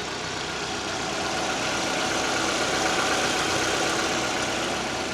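Proton Suprima S 1.6 turbo petrol engine idling steadily, getting a little louder around the middle and easing back. It is running on test and is reported to be in good order.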